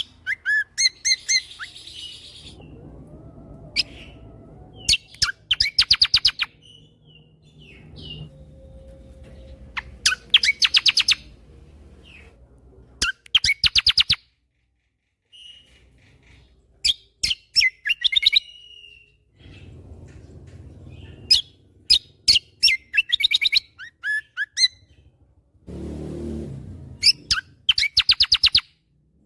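Kecial kombo songbird singing in bursts of rapid, sharp staccato notes, each burst a fast rattling volley lasting about a second and repeated every few seconds, with short single whistles and a brief warble between them. A low rumble in the background rises briefly near the end.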